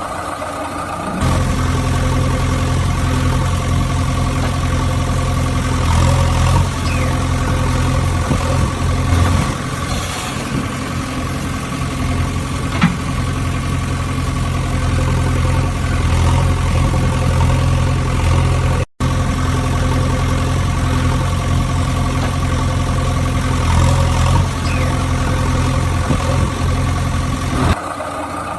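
Engine idling steadily, starting about a second in. It cuts out to silence for an instant about two-thirds of the way through and stops shortly before the end.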